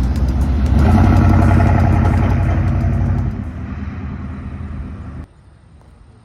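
A vehicle engine running loudly, growing louder about a second in, then fading from about three seconds and cutting off abruptly near the end.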